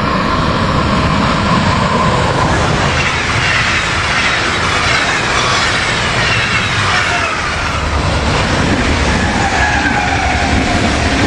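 Electric passenger trains passing close at speed: first an Intercity hauled by a DB Class 101 electric locomotive, then an ICE. Loud steady wheel-on-rail rolling noise, with a whine that falls in pitch as each train goes by.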